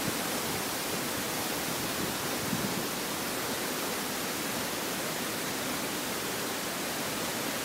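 Rio Celeste waterfall pouring: a steady, even rush of falling water.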